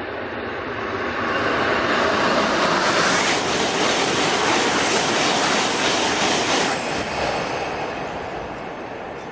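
Tohoku Shinkansen bullet train passing by at speed: a rush of air and rail noise that swells about a second in, holds loud for several seconds, then fades away.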